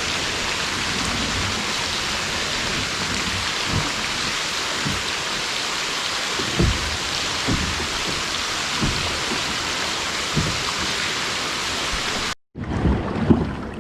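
Heavy rain falling steadily, a constant hiss with occasional dull thuds of drops. It cuts off abruptly near the end.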